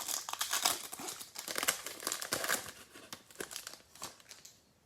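Foil trading-card pack wrapper being crinkled and torn open, a dense irregular rustling that thins out and stops near the end.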